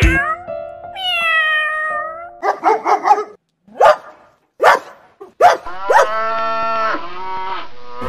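A run of domestic animal calls: a kitten meowing with a falling pitch, a few short sharp dog barks, then a long drawn-out cow moo that dips and then holds steady.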